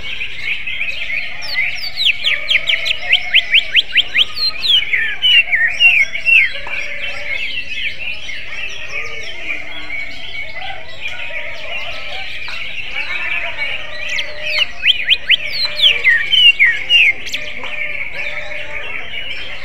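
Cucak ijo (green leafbird) singing: two bursts of rapid, loud sweeping notes, the first a couple of seconds in and the second about two-thirds of the way through, over a steady high background chatter. The song is likened to a magpie robin's (kacer).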